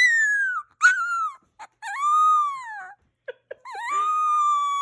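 A dog whining and howling in a string of high calls: two short falling cries, then a longer arching one, and near the end a long, drawn-out howl held close to one pitch.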